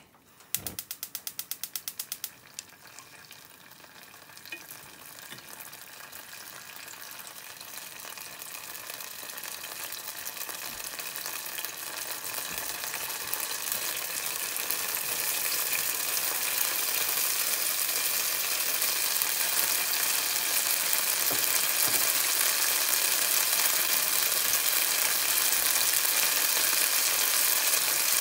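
A gas stove igniter clicks rapidly for about two seconds. Then oil in a frying pan starts to sizzle, growing steadily louder through the first half as green pepper pieces are tipped in and stirred with chopsticks.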